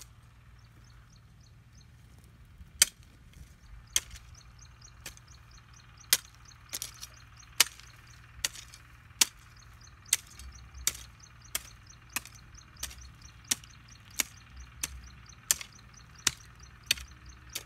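Repeated sharp chopping strikes, about one every three quarters of a second, starting about three seconds in.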